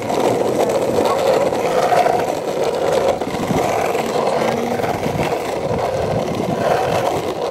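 Sector 9 longboard on Sidewinder trucks rolling along, its wheels making a steady rolling noise.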